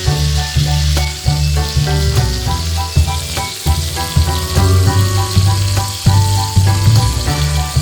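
Chicken sizzling as it fries, under background music with a rhythmic bass line.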